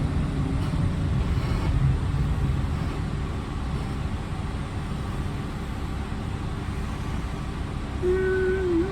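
PATCO Speedline rapid-transit train running, a steady low rumble heard from inside the car. Near the end a whining tone comes in.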